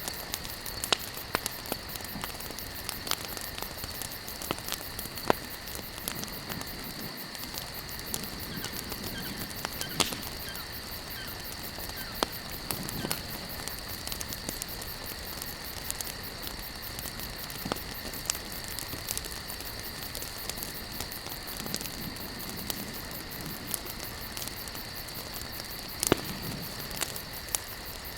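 Wood campfire burning, crackling with irregular pops, a few of them sharp and loud, over a steady high insect chirring.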